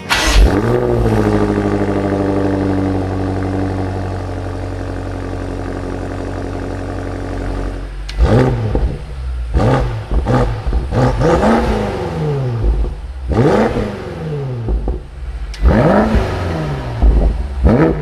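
BMW X6 M Competition's 4.4-litre twin-turbo V8 starting with a loud rev flare that falls back to a steady idle. About eight seconds in, a run of quick throttle blips begins, each revving up and dropping back.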